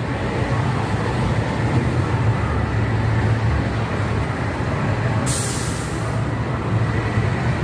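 A large vehicle's engine running with a steady low hum, and a short hiss of released air about five seconds in.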